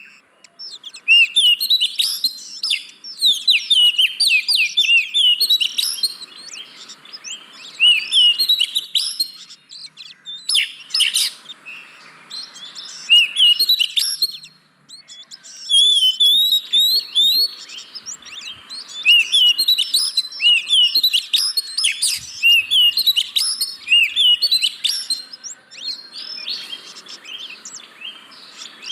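Oriental magpie-robin (kacer) singing in full, busy song: runs of quick, varied chirps and whistles in phrases a few seconds long, with short breaks between them.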